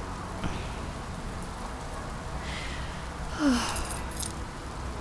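Steady rain ambience. A little past halfway comes a short falling voice sound, followed by a brief high metallic jingle.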